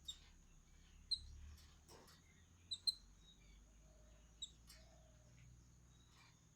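Faint, short bird chirps, about five of them scattered through, over a steady faint high-pitched tone.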